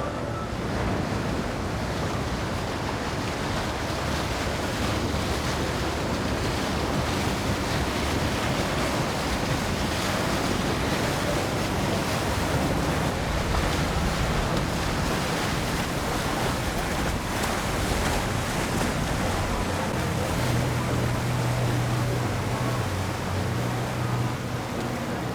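Steady rush of wind and water around a motorboat. A low engine hum comes up about twenty seconds in.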